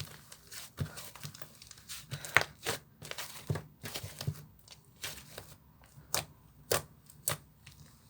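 Slime being worked by hand, giving irregular sticky pops and crackles, a few sharper ones standing out.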